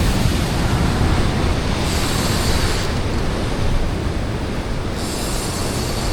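Ocean surf washing against a rock ledge, with wind rumbling on the microphone. Two surges of hissing wash come about two seconds in and again near the end.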